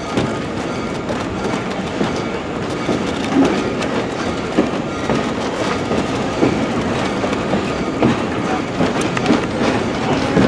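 Excursion train rolling along the track, heard from aboard: a steady rumble of wheels on rail with irregular clicks and knocks every second or two.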